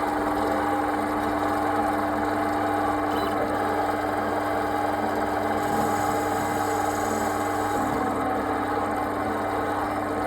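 Small electric motor running at a steady speed with an even hum, turning a fishing rod blank round and round.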